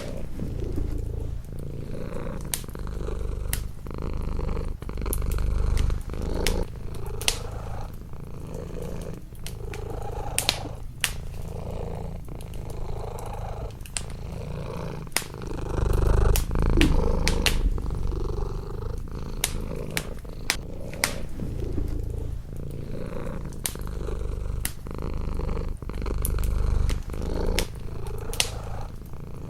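A domestic cat purring close up in slow swells, over a wood fire in a fireplace crackling with sharp, scattered snaps.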